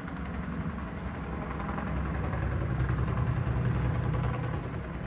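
An engine running steadily at idle, growing a little louder through the middle and easing off near the end.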